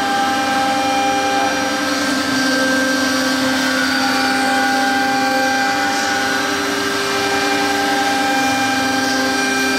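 CNC router's 3.5 kW air-cooled spindle running at steady speed with a continuous whine while cutting fiber board, along with the rushing noise of the cut.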